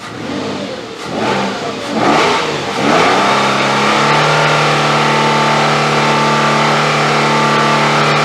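2009 Nissan Frontier engine revved in several quick blips during the first three seconds, then held steady at high RPM. The truck is under diagnosis for a random misfire and lack of power.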